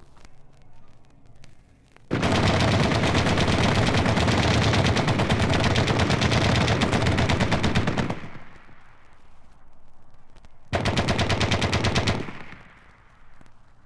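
Machine-gun fire: a long unbroken burst of about six seconds, then after a pause of two or three seconds a shorter burst of about a second and a half.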